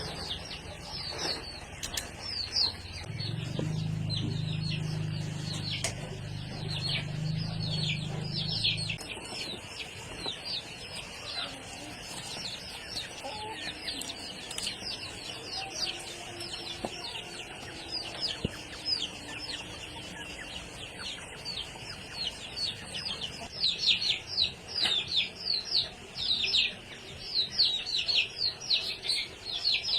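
Chickens peeping and chirping: many short, quick falling calls, busiest near the end. A low steady hum runs under the first nine seconds, then stops.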